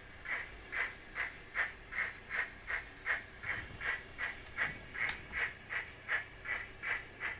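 Recorded steam-locomotive exhaust chuffs from the sound decoder's small onboard speaker in a Graham Farish N gauge SECR N class model, beating in a steady, even rhythm of about two and a half chuffs a second as the model runs at speed.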